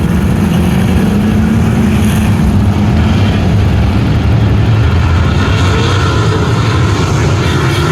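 Sprint car racing engines running loud and steady at speed, with no break in the noise.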